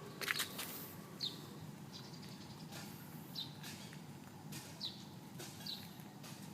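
A bird chirping: short high notes that drop in pitch, repeating every second or so, over a steady low background hum, with a few sharp clicks near the start.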